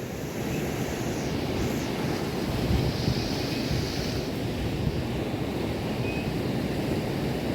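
Wind buffeting the microphone over a steady wash of surf, with a gust of hiss swelling in the middle.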